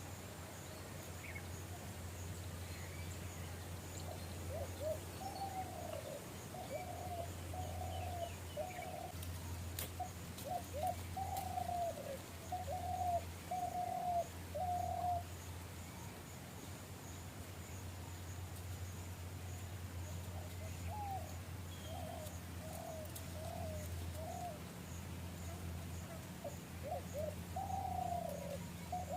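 A bird calling in two long bouts of short, repeated, mid-pitched notes, a little more than one a second, the first starting about four seconds in and the second about twenty seconds in.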